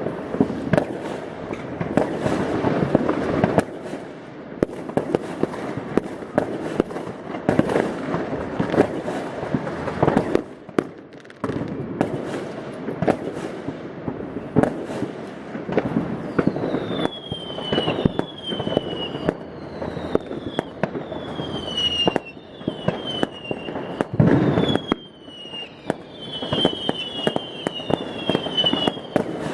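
New Year's Eve fireworks going off all around: a dense, continuous string of bangs and firecracker cracks. From about halfway through, a run of high, falling whistles repeats over the bangs.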